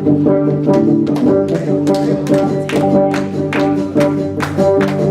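A live church band playing an instrumental passage: held chords over a steady drumbeat, with no singing.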